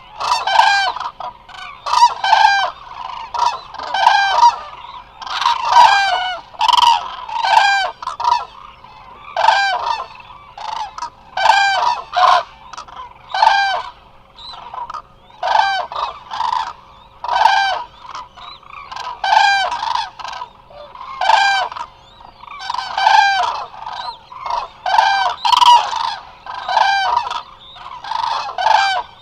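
A flock of Eurasian cranes calling: loud, overlapping trumpeting calls repeated over and over by many birds at once.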